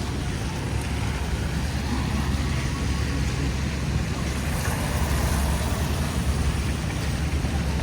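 Steady city traffic noise: a deep, even rumble with a hiss over it.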